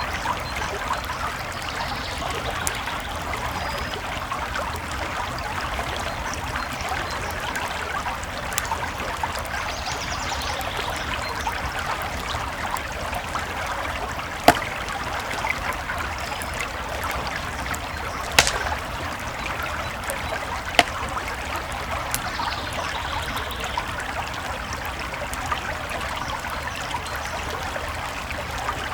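A creek flowing steadily with a campfire crackling over it. Three sharper pops stand out, about halfway through and twice more a few seconds later.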